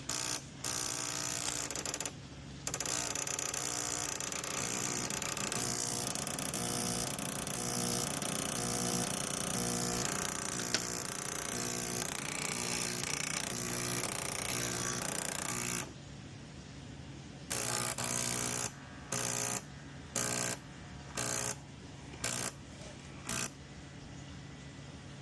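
Breville BES870XL espresso machine's vibratory pump running loudly with a rattling buzz. It stops about two-thirds of the way through, then switches on and off in several short bursts. The fault is still there with a new solenoid valve and a new pump, which the owner takes for a faulty control board.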